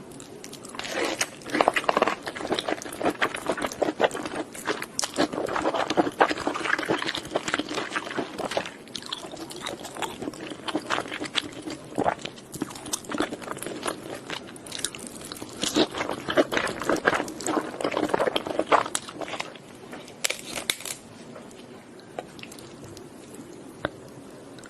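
Close-miked crunching and chewing of crisp food, with many sharp crackly bites and chews; the crunching thins out to quieter chewing near the end.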